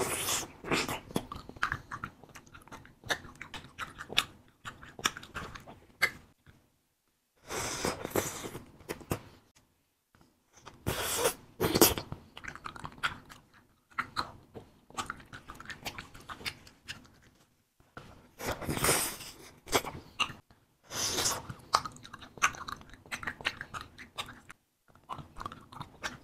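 Biting into and chewing wax candy with a fruit-juice filling: wet, sticky chewing with small clicks, in bouts broken by short pauses.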